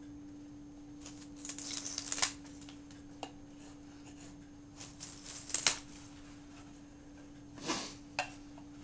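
Benchmade 615 Mini-Rukus folding knife's S30V blade carving into a wooden 2x2, shaving the wood in two scraping strokes about a second in and about five seconds in, then two sharp knocks near the end. A steady low hum runs underneath.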